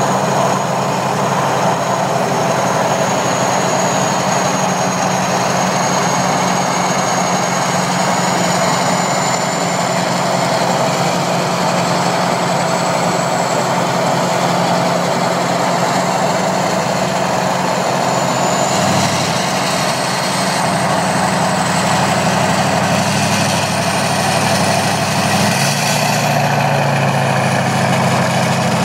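2007 Duramax LBZ 6.6-litre V8 turbodiesel running through a 4-inch straight-pipe exhaust, idling with a steady deep drone and a thin high whine. Its note shifts slightly about two-thirds of the way in and again near the end.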